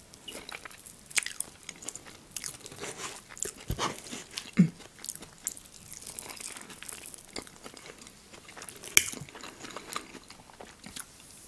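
Close-miked chewing and mouth sounds of eating soft food, fried egg and potato: scattered wet smacks and short clicks, with a louder click about four and a half seconds in and again about nine seconds in.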